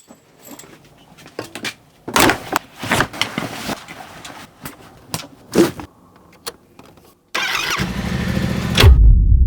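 A run of scattered clicks and knocks, then about seven seconds in a motorcycle engine starts and runs, getting louder with a brief rev near the end.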